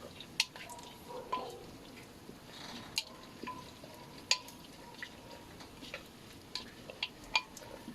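A utensil clinking and tapping against a bowl while stirring, in irregular sharp knocks, about a dozen of them.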